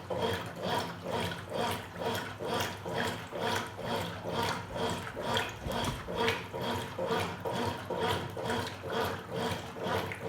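Top-loading washing machine agitating a load of clothes in water during the wash stage, an even swish-and-churn at about two to three strokes a second.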